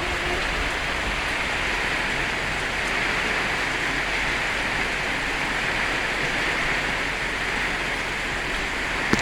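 Steady rain falling, an even, unbroken hiss of a downpour during a thunderstorm.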